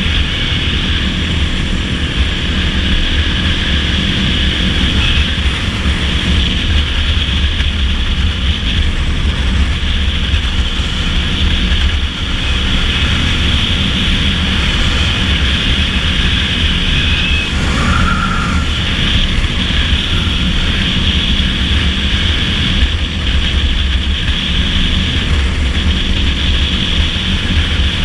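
Dirt bike engine running steadily at cruising speed, with heavy wind rumble on the microphone. A brief higher tone sounds about two-thirds of the way through.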